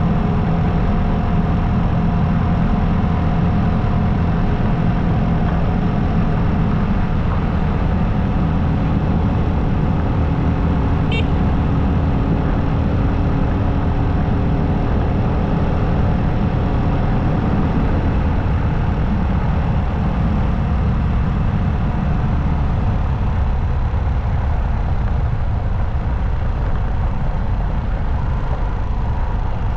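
Motorcycle engine running steadily at cruising speed, with a constant rush of wind noise under it.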